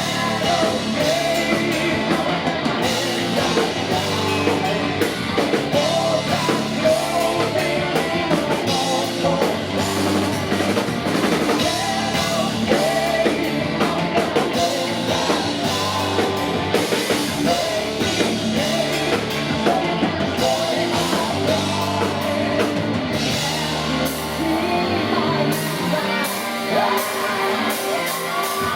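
Heavy metal band playing live: distorted guitars, bass and a driving drum kit, with a singer's voice over them.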